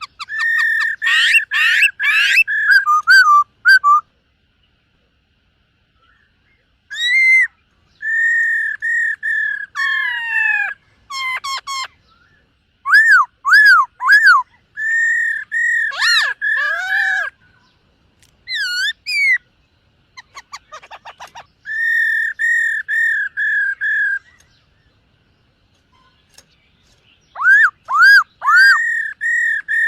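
Black-throated laughingthrush singing: loud, clear whistled notes, mostly repeated at one pitch in quick runs, mixed with up-and-down swooping notes, in phrases broken by pauses of a second or more.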